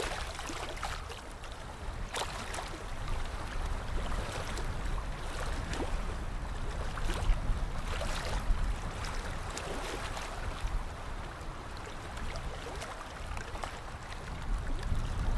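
Water lapping and splashing: a steady wash with many small, sharp splashes and a low rumble underneath.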